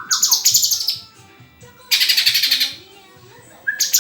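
A murai songbird singing: three loud bursts of rapid, high chattering notes, each under a second long, about two seconds apart, with a short falling whistle at the start.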